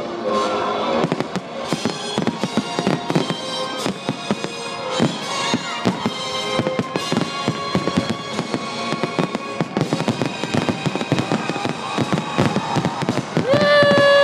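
Fireworks finale barrage: many bangs a second, firing rapidly and continuously, over music played at the show. A loud held chord comes in near the end.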